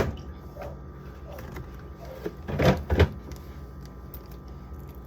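A few short knocks and clunks of food containers being handled on refrigerator shelves: one right at the start and two close together about two and a half to three seconds in, over a steady low hum.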